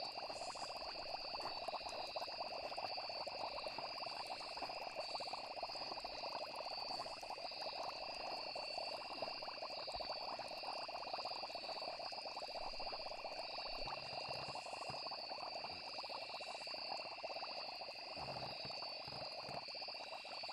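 Night chorus of frogs calling densely, with crickets trilling steadily at a high pitch over it. A few soft low knocks come near the end.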